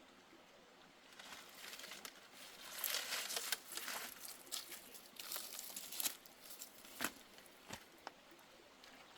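Dry rustling and crackling in irregular bursts, with a few sharp snaps near the end.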